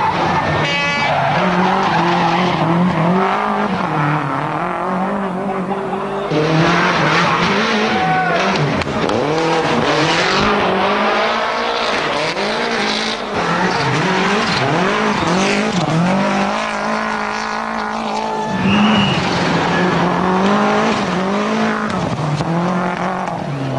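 Toyota Celica GT-Four ST165's turbocharged 2.0-litre four-cylinder engine being driven hard, its revs climbing and dropping repeatedly through gear changes. A rushing hiss joins about six seconds in.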